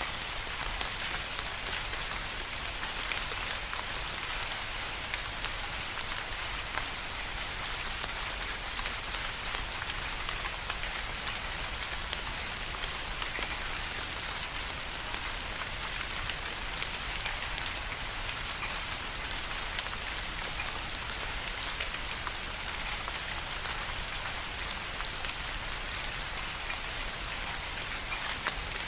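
Steady rain falling, an even hiss with many small sharp drop ticks over it.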